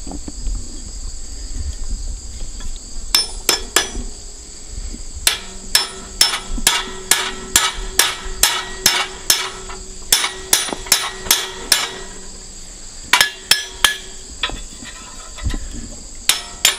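Blacksmith's hammer striking hot iron on the anvil, punching out a slit hole in the stock and rounding it, in runs of sharp blows about three a second with short pauses between runs and a faint ring after them. Insects chirp steadily in the background.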